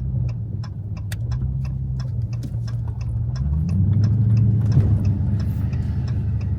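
Turn-signal indicator ticking steadily, about three clicks a second, over the low run of a Dodge Challenger Scat Pack's 6.4-litre HEMI V8 heard inside the cabin; the engine grows louder a little past halfway as the car pulls through the turn.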